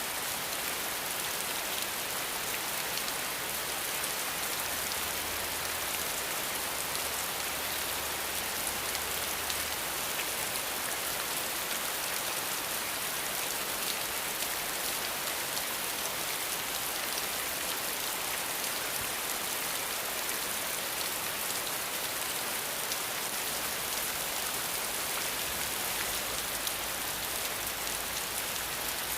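Steady rain falling, an even hiss of dense drops that holds without a break.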